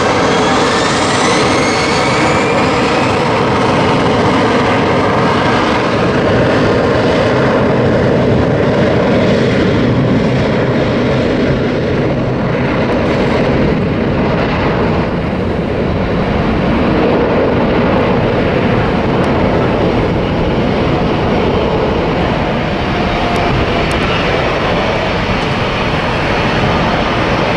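Jet airliner's engines spooling up to takeoff thrust and running loud and steady through the takeoff roll, with a rising whine in the first few seconds.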